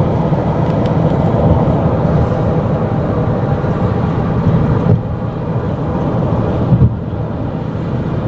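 Loud steady rumble inside a van, the noise the uploader set out to record. It drops a little about five seconds in, and again just after seven seconds following a brief louder bump.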